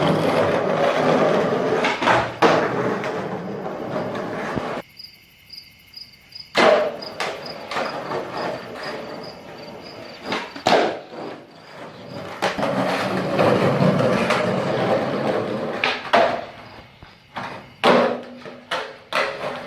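Skateboard wheels rolling on pavement, broken by sharp cracks and clacks of the board popping and landing, over a dozen of them; the rolling stops for a stretch about five seconds in and picks up again.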